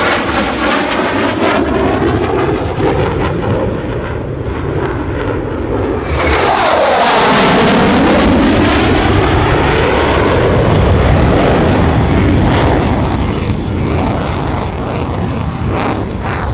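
F-16 fighter jet's engine noise as the jet flies past. It grows loudest from about six seconds in, with a sweeping whoosh as it passes closest, then eases off.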